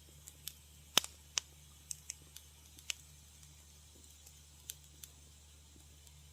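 Wood fire crackling: irregular sharp pops and snaps, a dozen or so scattered through, the loudest about a second in.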